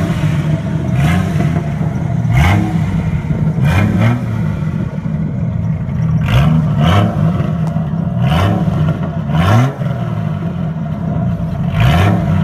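Car engine revved again and again in quick throttle blips, about ten sharp rises in pitch over a steady running note, while the car is driven hard in snow.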